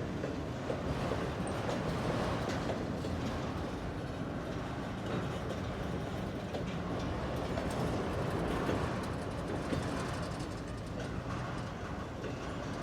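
Freight cars rolling slowly along the track during switching, a steady rumble with faint clicks of wheels over rail joints.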